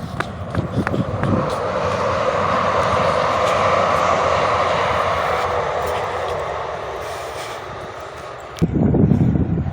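A vehicle passing by, its noise swelling over a few seconds and then fading away. A louder low rumble starts suddenly near the end.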